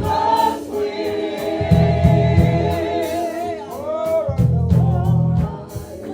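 Live gospel music: a choir singing held, sliding notes over band accompaniment with a repeated beat.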